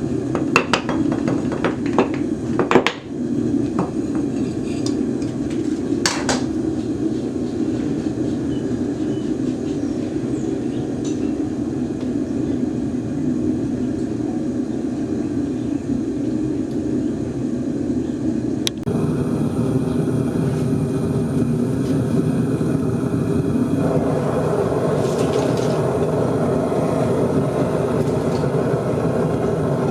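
A steady roar with a handful of sharp metallic knocks and clinks in the first several seconds. The roar changes abruptly about two-thirds of the way in and grows fuller near the end.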